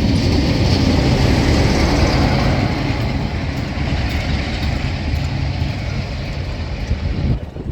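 A train passing close by: a loud, steady rumble and rush of wheels on rails that cuts off abruptly near the end.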